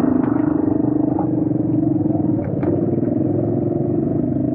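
Motorcycle engine running steadily while riding over a rough off-road track, with a few light rattles from the bumps.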